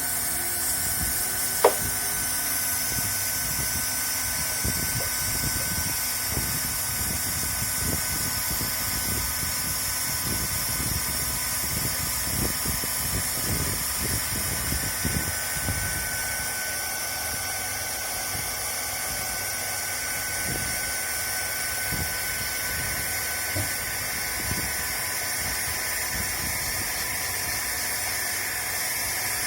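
Handheld hot-air plastic welder (LST1600A) running: its blower motor whines steadily under a continuous hiss of hot air. One sharp click comes about two seconds in.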